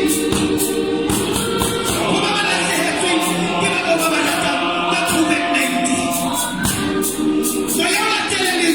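Gospel choir singing a Sesotho hymn in several-part harmony, with a regular percussive beat over the voices.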